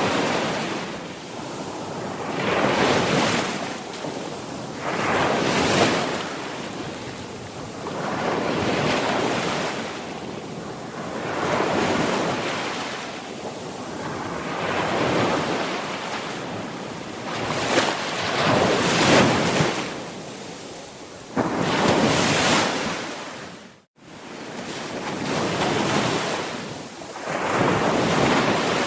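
Sea waves breaking and washing up the shore, the surf swelling and fading every few seconds. Shortly before the end the sound cuts out for a split second.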